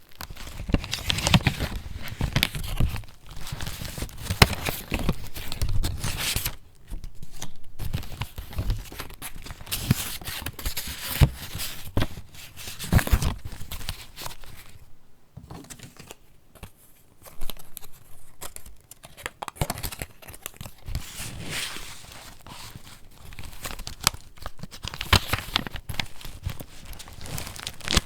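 Paper rustling and crinkling as the layered pages of a handmade junk journal are turned and handled, in irregular bursts with brief lulls about a quarter of the way and about halfway through.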